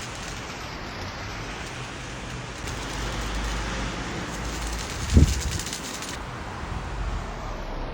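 Steady rain falling, an even hiss. Partway through a low rumble swells up, and a short low thud about five seconds in is the loudest moment.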